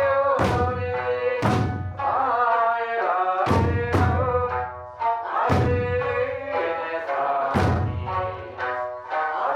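Okinawan eisa music: a folk song sung to sanshin, punctuated by about six heavy taiko drum strokes at uneven intervals.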